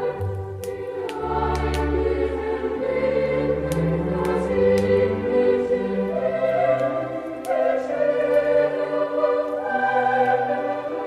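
Choral Christmas music: a choir singing held notes over a deep, slow accompaniment. Sharp crackles of a fireplace fire pop now and then over the music.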